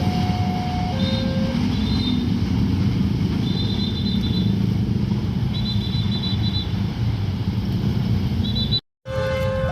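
A train passing over a level crossing with a steady heavy rumble of wheels on rail, with short high squeals coming and going over it. In the first second and a half the crossing alarm sounds its two alternating notes. Near the end the sound drops out for a moment and the two-tone crossing alarm is heard again.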